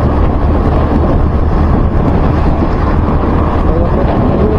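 Steady wind noise on the microphone over the low road and engine noise of a vehicle moving in traffic.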